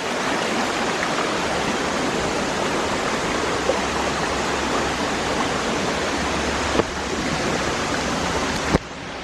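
River water rushing over rocks, a steady loud rush, with a couple of small knocks near the end.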